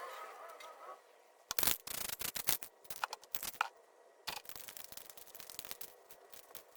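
Two irregular runs of sharp clicks and knocks, the first about a second and a half in and the second just past the middle, after a pitched sound with falling pitch fades out in the first second.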